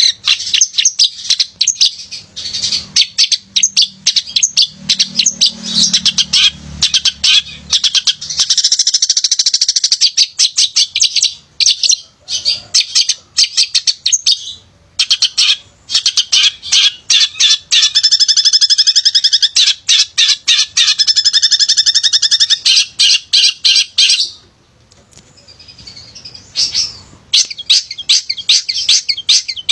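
Male long-tailed shrike singing hard: a fast, almost unbroken run of high chattering notes and longer rattling trills, with a short pause about two-thirds of the way through.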